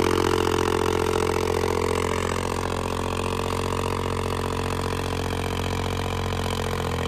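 Diesel tractor engine running steadily under heavy load as it drags a harrow with the tines fully open. The level eases slightly as the engine starts to be pulled down by the load.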